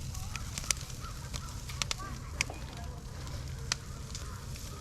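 Wood campfire crackling under a grill, with a handful of sharp pops from the burning firewood.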